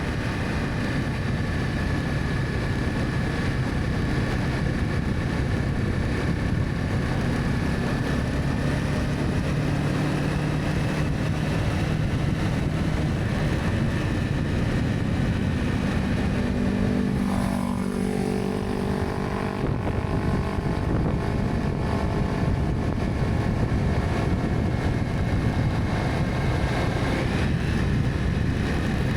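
Honda CB300F motorcycle running under way: a steady single-cylinder engine note over road and wind noise, its pitch shifting briefly about halfway through.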